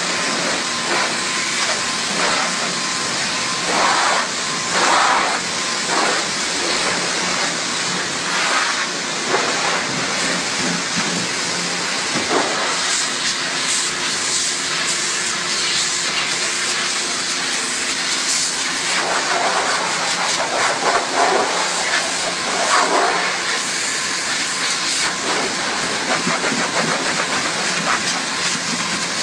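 High-pressure water jet spraying with a steady hiss, swelling louder for moments now and then, with a faint steady hum beneath it in the middle of the stretch.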